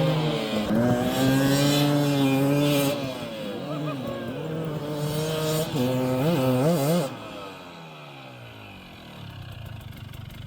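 Dirt bike engine running hard at high revs in sand, easing off a little about three seconds in. Near seven seconds it gives a few quick throttle blips, then its pitch slides steadily down as the sound falls away.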